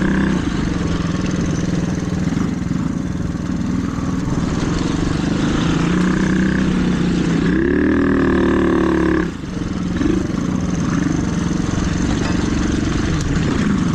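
Small mini dirt bike engine running under way on a trail, its pitch climbing as the throttle is opened about eight seconds in, then dipping briefly as the throttle is let off before it runs on again.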